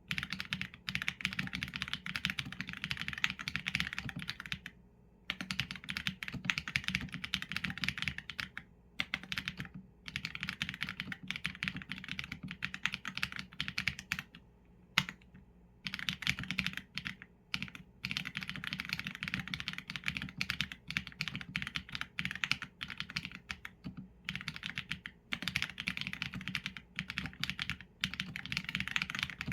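Typing on a Qsenn A75 mechanical keyboard with Leobog Graywood v4 linear switches and PBT keycaps: fast, steady runs of keystrokes, broken now and then by pauses of about a second.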